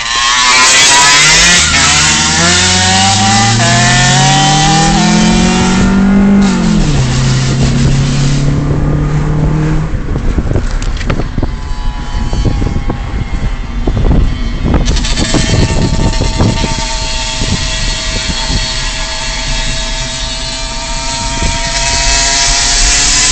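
Dirt bike engine revving: its pitch climbs for the first several seconds, drops sharply and holds, then gives way to a rough, crackling stretch and a steady high whine near the end.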